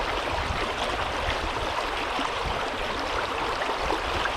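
Fast-flowing creek rushing over stones, a steady rush of water, with a low rumble underneath.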